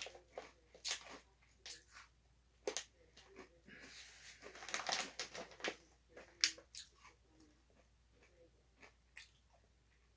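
Quiet chewing of crunchy puffed snacks, with scattered crisp crunches and the crinkle of a plastic snack bag being handled, the rustle heaviest around the middle.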